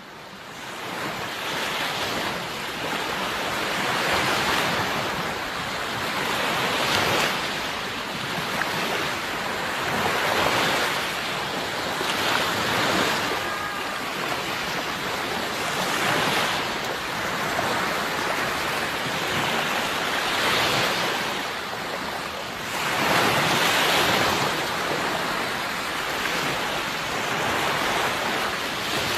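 Sea waves breaking and washing ashore, the surf swelling every three seconds or so. It fades in over the first second.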